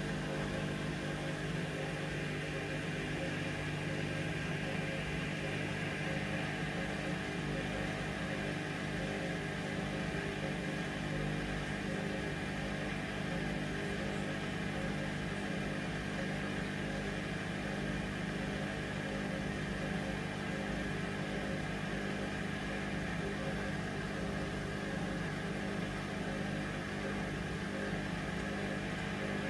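Hoover Vision Dynamic washing machine on its final spin, the drum motor running with a steady, unchanging hum.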